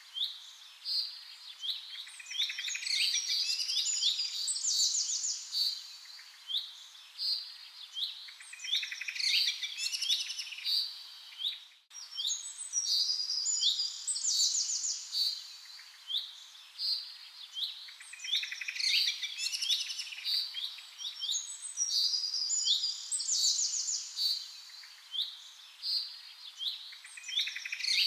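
Several songbirds chirping and trilling over one another in a steady chorus of high-pitched calls, short down-slurred notes and fast trills. There is a brief dropout in the sound about midway.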